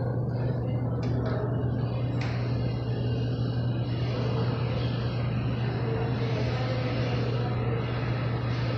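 R179 subway train approaching into the station, its rumble and rail noise building from about two seconds in over a steady low hum, with a couple of sharp clicks early.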